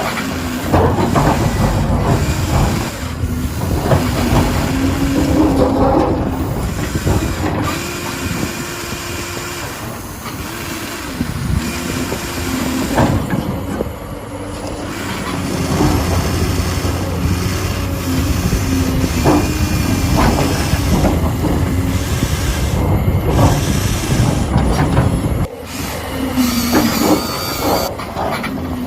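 Small electric motors and gearing of a Huina 1593 radio-controlled excavator running, with a whine that keeps changing pitch as the motors are worked, and some clatter.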